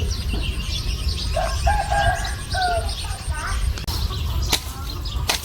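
A rooster crowing once, beginning about a second in, over the light chirping of small birds and a low rumble of wind on the microphone. A few sharp clicks come near the end.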